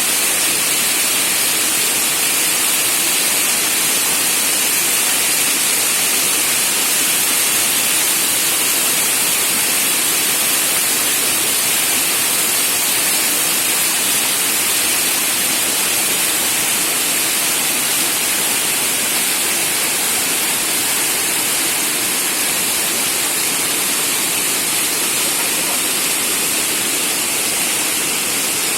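Shumka waterfall: falling water crashing, a loud, steady, even rush with no breaks.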